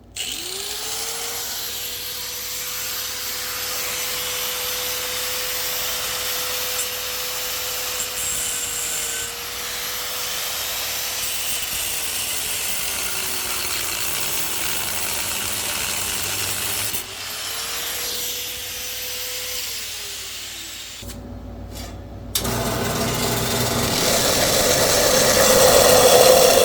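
Angle grinder with a flap disc grinding off a bolt: the motor whine spins up, runs steadily and winds down, then does so again more briefly. Near the end a louder machine starts and builds, the metal-cutting saw that was cutting before.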